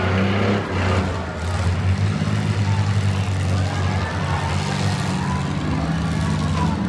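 Demolition derby cars' engines running on the track, a steady low drone with pitch rising and falling as they rev.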